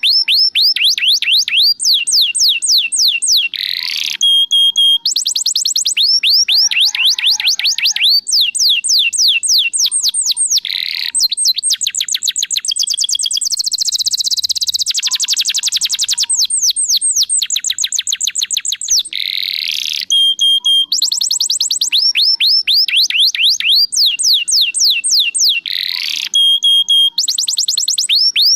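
Domestic canary singing continuously: long fast trills of repeated downward-sweeping notes, broken by short held whistles and a very rapid buzzy trill about halfway through.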